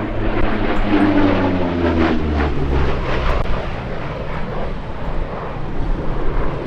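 Lockheed P-38 Lightning's twin Allison V-12 engines on a pass. The engine note falls in pitch from about one to three seconds in as the aircraft goes by, then settles into a steadier, slightly quieter drone.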